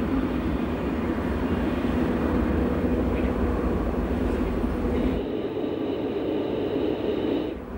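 Furka-Oberalp electric train running, a steady hum over a low rumble. About five seconds in the sound changes abruptly: the rumble drops away and a thinner hum remains.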